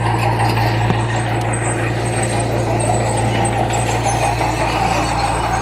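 Heavy construction machine's diesel engine running steadily under load, with a deep, even hum.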